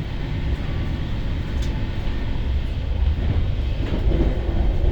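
Steady low rumble inside a passenger train carriage as the train runs along the track.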